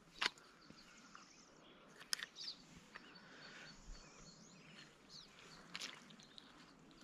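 Birds chirping softly, with a few sharp clicks, the loudest just after the start and others about two and six seconds in.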